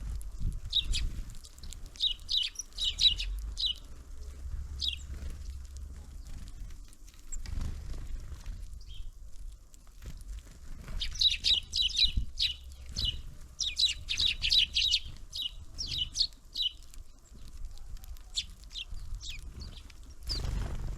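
Small songbirds at a winter feeder calling: quick runs of short, high chirps, heaviest about two to four seconds in and again from about eleven to seventeen seconds, over a low rumble.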